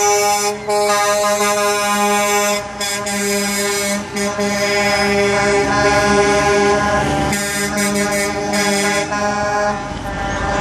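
Truck air horns blowing long, held blasts with a few short breaks. A second horn at a different pitch joins about halfway through, over the rising noise of a passing truck.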